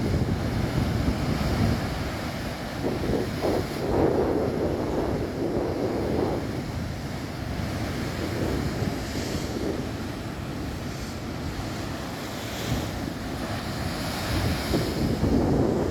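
Cantabrian Sea surf breaking against the coast, swelling and falling in surges, with wind rumbling on the microphone.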